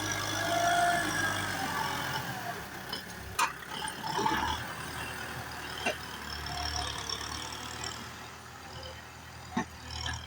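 Tractor engine running steadily, with a few sharp knocks.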